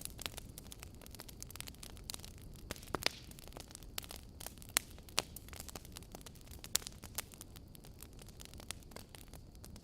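Wood fire crackling: irregular sharp pops and snaps over a low, steady rumble of burning logs, with a few louder pops scattered through.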